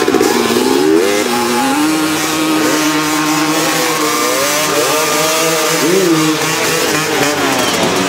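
Freestyle motocross dirt bike engines revving, the pitch climbing and dropping several times with a held stretch in between.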